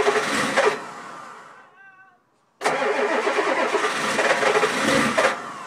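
1987 Ford F-250's 6.9-litre diesel V8 being cranked over by its starter in the cold, in two bursts a couple of seconds apart. Each burst stops abruptly and the engine winds down without catching and running.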